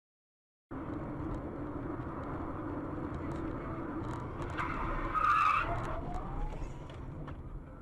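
Car driving, with steady road and engine noise starting abruptly under a second in, and a brief loud tyre squeal about five seconds in.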